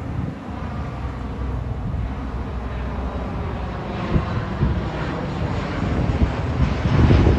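Jet airliner on approach passing low overhead, its noise building and loudest near the end, with wind buffeting the microphone.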